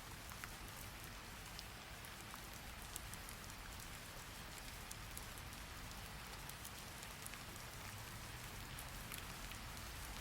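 Steady rain falling, an even hiss with scattered, irregular drop ticks.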